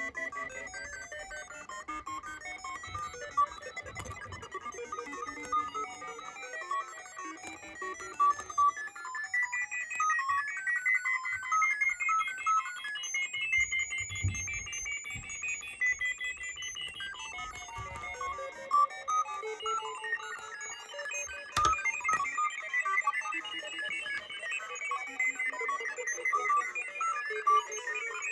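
Two electronic random tone generators playing at once: rapid streams of short, pure beeps jumping randomly in pitch, like a vintage computer's readout, one of them washed in reverb. A few sharp clicks sound through it, one about four seconds in and one near three quarters of the way.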